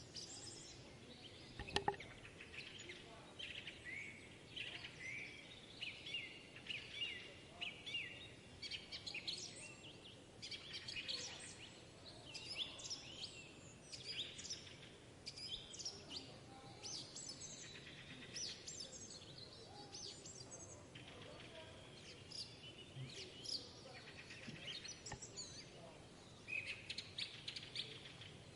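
Many forest birds singing and calling together in summer, a dense chorus of high chirps and short whistled phrases over a faint steady background. A single sharp knock sounds about two seconds in.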